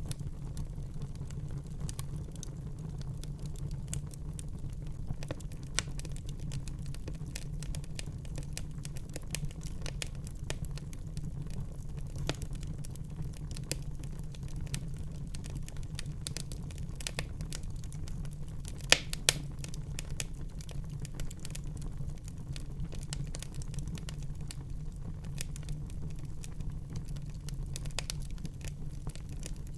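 Wood fire burning in a fireplace: a steady low rumble of the flames with scattered crackles and small pops, a couple of sharper pops about two-thirds of the way through.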